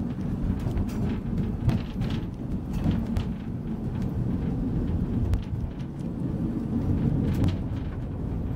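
Narrow-gauge train running along the track: a steady low rumble with irregular clicks and knocks from the wheels passing over rail joints and points.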